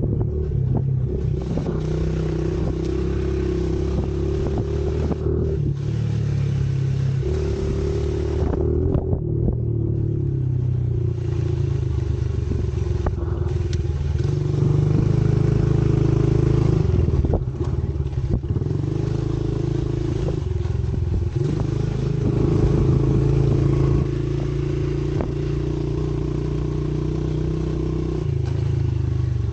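Pit bike engine running under way, its note stepping up and down every few seconds as the throttle is opened and eased off.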